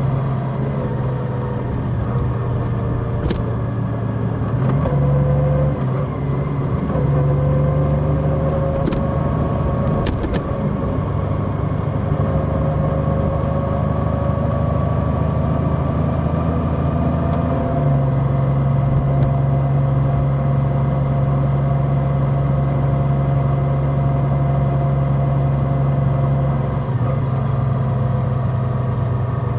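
Large motorcycle's engine running at road speed, heard from on the bike, its note shifting to a new level a few times.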